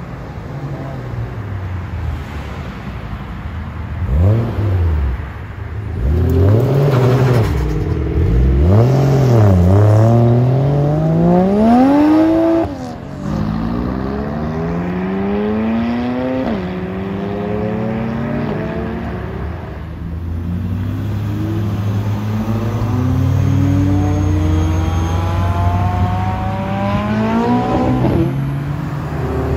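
Cars pulling away with loud engine revving. The note rises and falls in a few short blips, then one car accelerates hard with its pitch climbing and dropping sharply at gear changes, about 13 and 16 seconds in. Later another engine note climbs steadily as a car pulls away.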